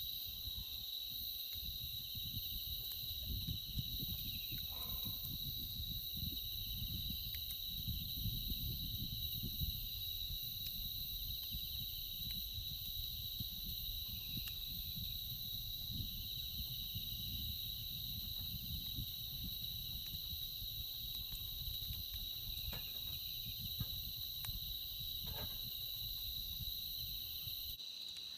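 Insects chirring steadily, a continuous high-pitched trill, over an uneven low rumble with a few faint clicks.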